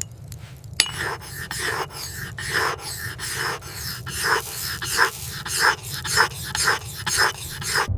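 Rhythmic rasping, scraping strokes, about two a second, starting sharply about a second in, over a steady low rumble.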